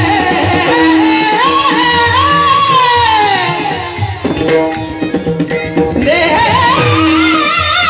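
Kirtan devotional singing: a voice sings long, ornamented high notes, sliding down through one long phrase, over a steady drone and rhythmic hand-drum strokes. The voice pauses briefly in the middle, then comes back with wavering high notes.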